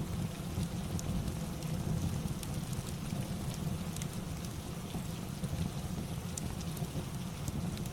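Steady rain with a deep rumble underneath, mixed with scattered small crackles from a fireplace.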